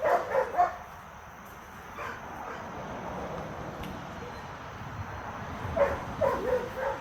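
Dogs barking and yipping in play: a flurry of short calls at the start, a single brief one about two seconds in, and another flurry near the end.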